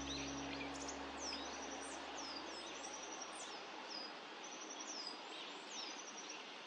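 Small wild birds calling high and thin, short downward-sliding notes alternating with quick rapid-fire runs of ticks, repeated every second or so over a steady outdoor hiss. A low musical chord fades out over the first few seconds.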